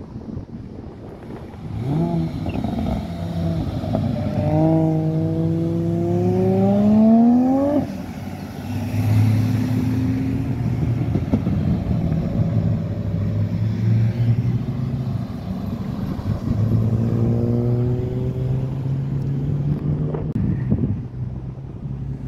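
Ford Falcon sedans driving past one after another, their engines accelerating. The engine pitch climbs steadily from about two to eight seconds in, then a steady engine note runs, then the pitch climbs again near the end.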